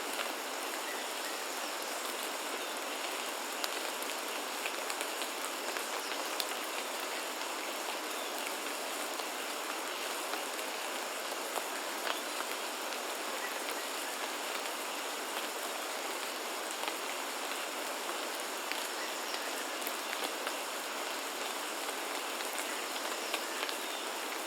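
Steady rain falling, an even hiss with many scattered drop taps.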